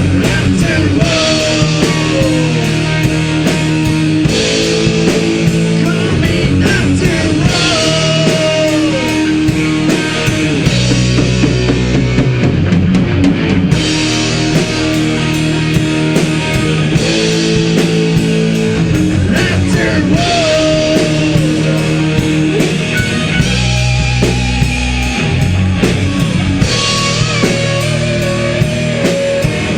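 Heavy metal band playing: distorted electric guitars over a drum kit with a steady beat, with lead lines that bend up and down in pitch.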